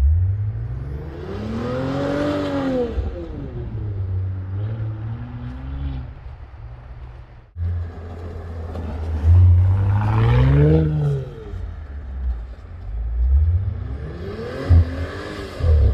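The 2018 Audi S5's turbocharged 3.0-litre V6 through a Milltek aftermarket exhaust, revving up and dropping back several times with a deep burbling note between the revs. The sound cuts out briefly about halfway through, and a couple of sharp cracks come near the end.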